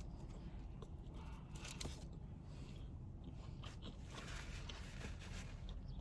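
Faint chewing and mouth sounds of a person eating a burger, with a few soft clicks, over a steady low background rumble.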